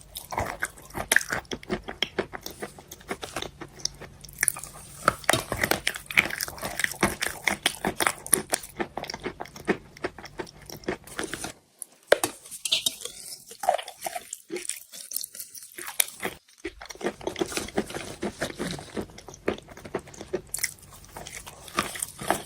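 Close-miked biting and chewing of wet chalk: a dense run of soft crunches and crackles, thinning to a few scattered sounds for several seconds past the middle before the crunching picks up again.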